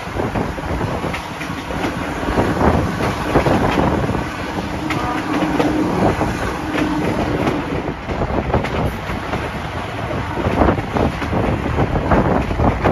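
Train running, heard from an open coach window: wheels clattering over rail joints, with the two Napier Deltic two-stroke diesel engines of Class 55 locomotive 55019 working at the head of the train.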